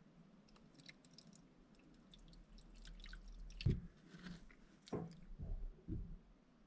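Faint small clicks and light handling noises, then a few dull knocks, the loudest between about three and a half and six seconds in.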